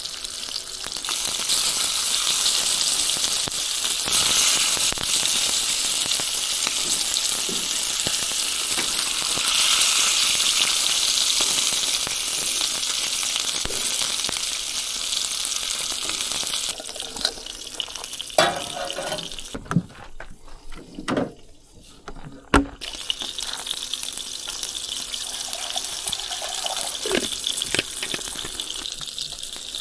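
Bacon and sausage sizzling on a Blackstone flat-top griddle, a steady loud hiss. About two-thirds through, the sizzle drops away for a few seconds with several sharp knocks, then resumes.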